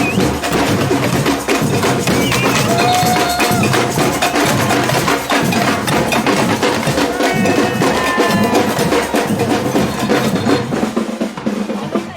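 Street procession percussion: drums and rapid, sharp wood-block-like knocks beating continuously and loudly, with a few voices calling out over it.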